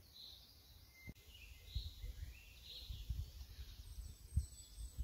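Faint songbird calls: short high notes repeating about once a second, with a brief whistle and a few gliding notes, over an uneven low rumble.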